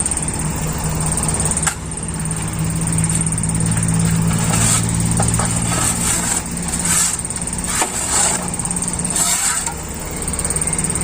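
Isuzu Elf dump truck's engine running steadily, with several short hissing, rushing noises over it around the middle.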